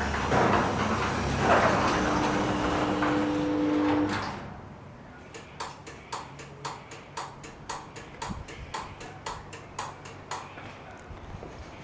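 Garage door running with a rumbling, humming noise that cuts off suddenly about four seconds in, followed by a steady run of sharp clicks, about three or four a second, for several seconds.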